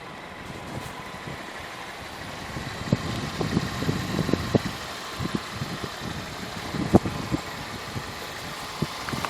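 A 1999 Toyota Celica's 1.8-litre four-cylinder, 16-valve engine idling steadily. From about three seconds in, scattered light knocks and clicks come over the idle, the sharpest near the end.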